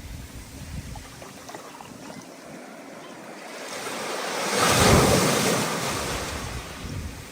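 Stormy ocean surf: a wave builds, breaks loudly about five seconds in, then washes back, with wind gusting on the microphone.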